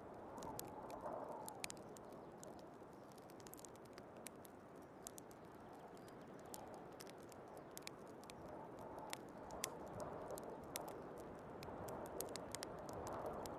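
Wood fire crackling, with many scattered sharp pops, over the steady rushing of snowstorm wind that swells at the start and again near the end.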